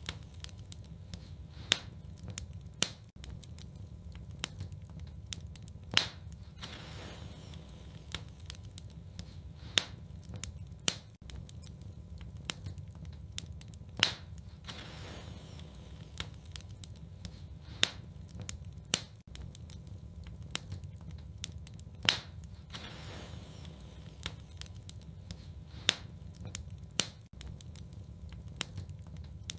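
Wood fire crackling in a fireplace: a steady low rumble of burning with many small crackles and sharp pops, the loudest pops coming about every four seconds.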